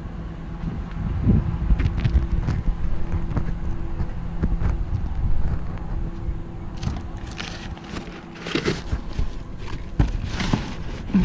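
Truck engine running with a steady low hum and rumble, heard from inside the cab; the hum stops about seven seconds in, and scattered knocks and scuffs follow.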